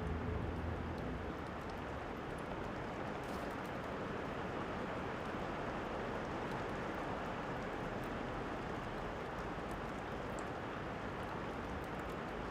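Steady rain falling, an even hiss, with scattered small crackles and pops from a fireplace sound track. A low rumble fades out about a second in.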